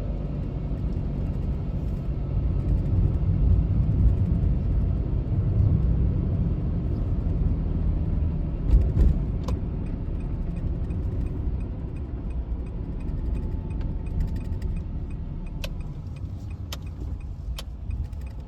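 Car driving, heard from inside: a steady low rumble of road and engine noise, with a few sharp clicks near the end.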